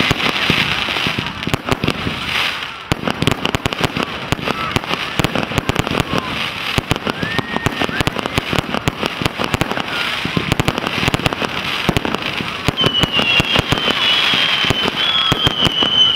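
Firework display going off: a dense, fast crackle of many small bangs and pops, with a high wavering squeal rising above it over the last few seconds.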